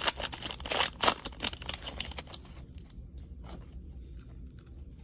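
A foil trading-card pack wrapper being torn open and crinkled, busiest for the first two seconds or so, then giving way to fainter, scattered rustles and ticks.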